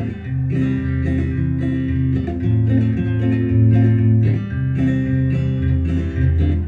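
Guitar music with a bass line, chords strummed between sung lines.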